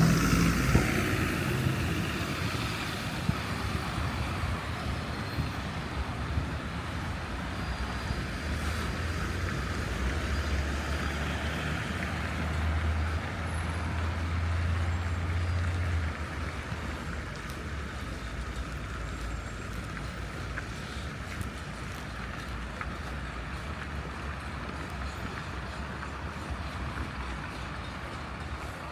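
Street traffic: motor vehicles running past, a steady wash of engine and tyre noise. A heavy vehicle's low engine hum comes in about a third of the way through and cuts off suddenly around halfway.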